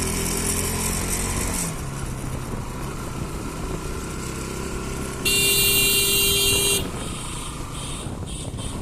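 Bajaj Pulsar NS200 single-cylinder motorcycle engine under way, its note dropping a couple of seconds in. Midway a horn sounds once for about a second and a half, the loudest thing heard.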